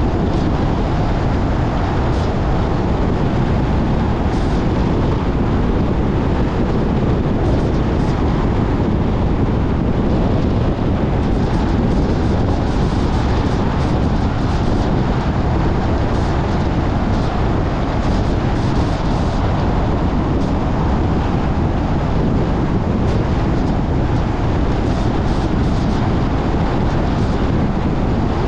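Steady road and wind noise of a moving car, a constant low rumble with a few faint ticks.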